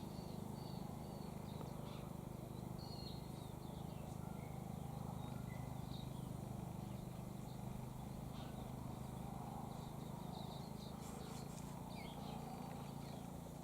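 Faint outdoor ambience: a steady low hum with scattered short bird chirps, a few more clustered near the end.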